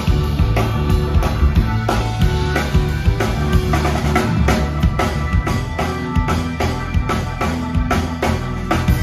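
Live rock band playing an instrumental passage: a drum kit keeps a steady beat with kick and snare under bass, guitar and keyboards.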